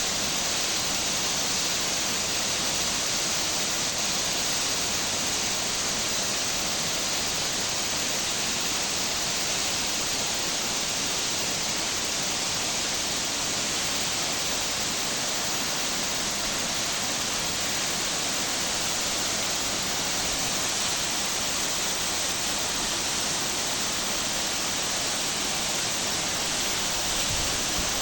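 Waterfall: the steady rush of falling water, even and unbroken throughout.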